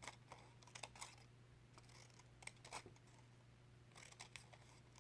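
Scissors cutting paper in a series of short, faint snips, about nine over a few seconds, as strips are cut into the paper.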